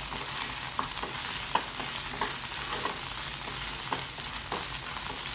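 Chopped garlic, ginger and whole dried red chillies sizzling in hot oil in a nonstick frying pan, with short scrapes and taps of a wooden spatula stirring them now and then.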